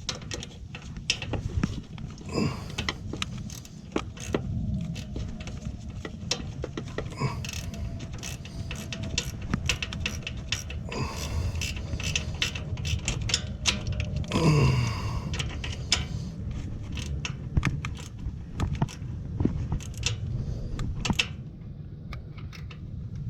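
Metal tools and hardware clicking and clinking at a generator's battery terminal as the cable connections are fitted and tightened, in irregular small knocks throughout. A short falling voice-like sound comes about halfway through.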